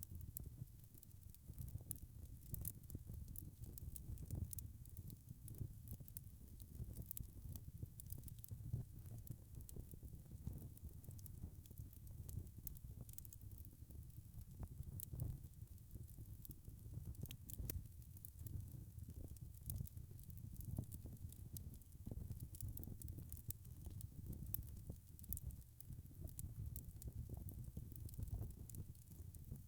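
Log fire burning in a fireplace: a steady low rumble of flames with frequent small crackles and pops scattered throughout.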